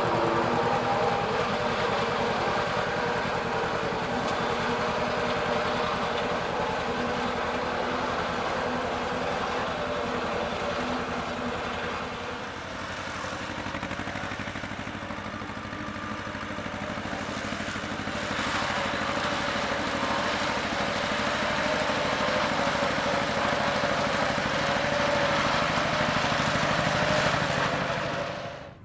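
Steady engine noise from a large vehicle running continuously, with a few held tones, dipping slightly in the middle and cutting off abruptly at the end.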